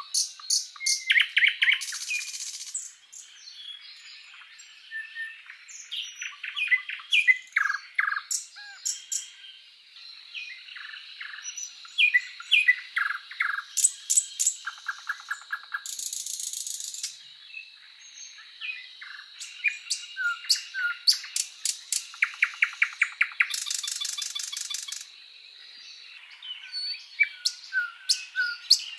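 Songbirds chirping and singing: many short chirps and whistles, with a few rapid trills and buzzy calls.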